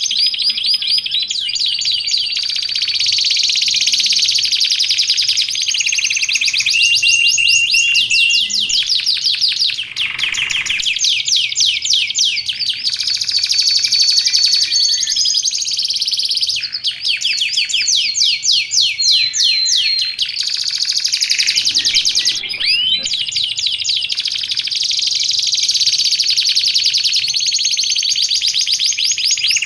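Canary singing continuously: long phrases of rapid trills and fast rising and falling notes, changing phrase every few seconds with short breaks between.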